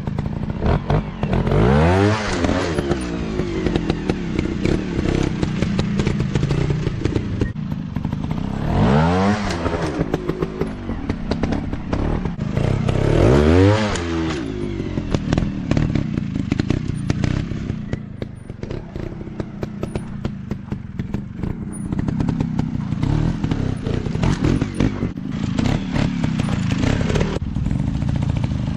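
Dirt bike engines running, with three sharp revs that rise and fall in pitch and steadier running between them, along with scattered clatter.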